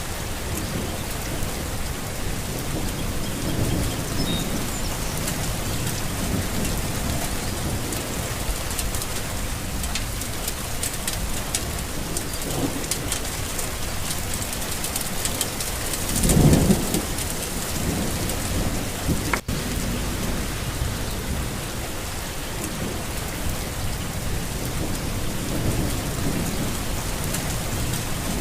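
Steady rain falling, with low rumbles of thunder and one louder low rumble a little past halfway. The sound drops out for an instant a few seconds later.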